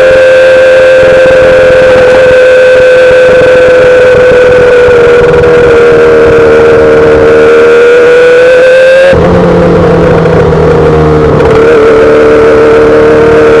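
Exhaust of a 2008 Yamaha R6 inline-four fitted with a full SC-Project exhaust, running loud and steady at a high pitch. The pitch sags slightly, then climbs, and about nine seconds in the sound changes abruptly to a slightly lower note.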